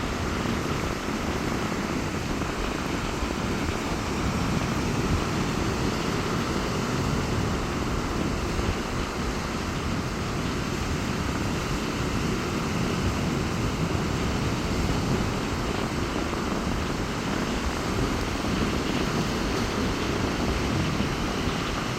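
Heavy sea surf breaking continuously on a beach in strong wind, a steady, deep rumble with no separate wave crashes standing out.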